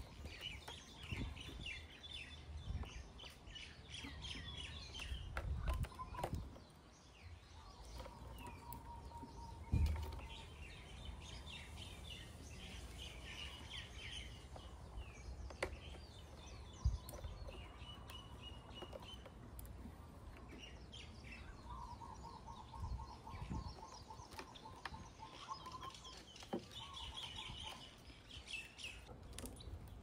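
Birds chirping in quick trills, some high and some lower-pitched, with a few sharp clicks and knocks from the plastic headset and wiring connectors being handled.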